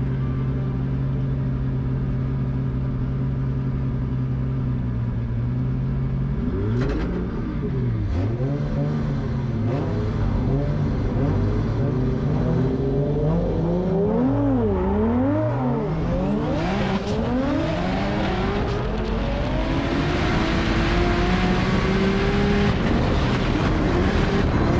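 Drift car engine holding a steady note for about six seconds, then revving up and down again and again as the throttle is worked; from about twenty seconds in a loud hiss builds beneath the engine.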